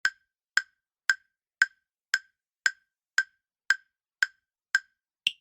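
Countdown-timer tick sound effect: eleven short, even wood-block-like ticks, about two a second, the last one higher-pitched, marking the time to answer a quiz question.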